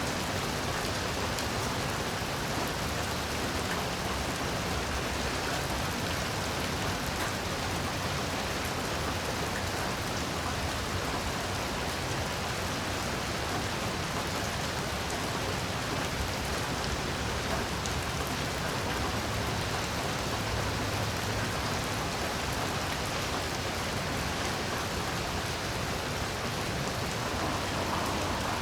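Heavy rain falling steadily, an even hiss of many drops with no change in strength.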